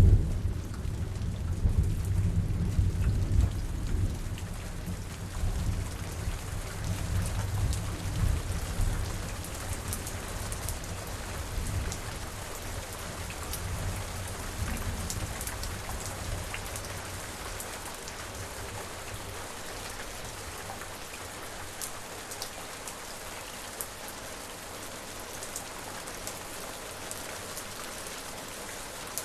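Steady rain with scattered drops ticking, under a roll of thunder that breaks loudly at the start and rumbles away over the first ten seconds or so.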